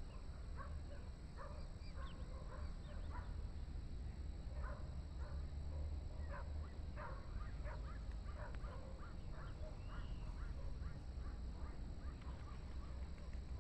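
Birds calling over and over in short calls, many in quick succession, over a low steady rumble.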